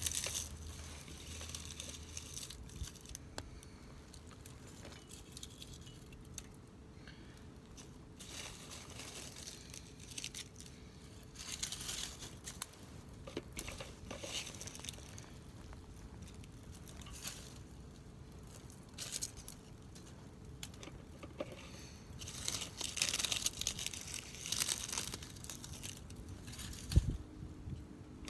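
Small wood fire crackling in a fire grill, with irregular sharp snaps and rustling crackle, busiest a few seconds before the end.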